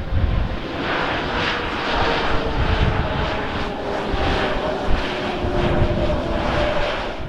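Airbus A320neo's Pratt & Whitney geared turbofan engines on landing: a loud, steady jet rush with tones falling slowly in pitch as the engines wind down. Strong wind is buffeting the microphone underneath.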